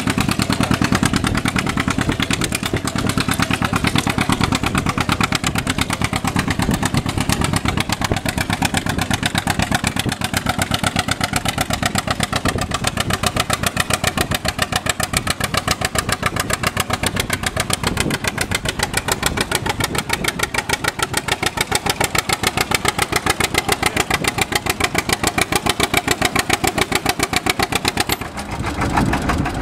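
Pulling tractor's engine running loud and steady, with rapid, evenly spaced firing pulses that dip briefly near the end.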